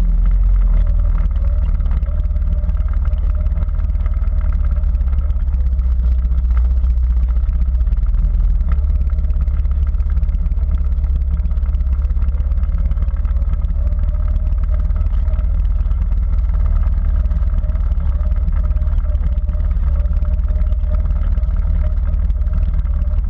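Quad bike engine running steadily under way, with a heavy low rumble throughout.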